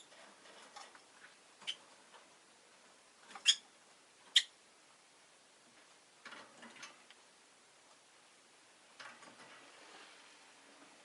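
Rosy-faced lovebird giving two short, sharp, high chirps a few seconds in, among faint scattered ticks and soft rustling.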